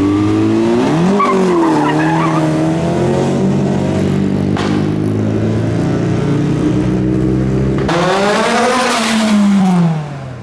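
Modified car engines revving as cars drive off. There is a short rev about a second in, then a steady drone, and near the end a louder rev that rises and then falls away.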